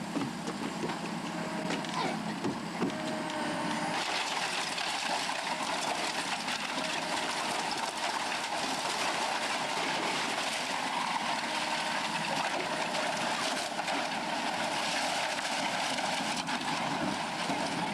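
Heavy demolition machinery running steadily, the noise growing louder about four seconds in.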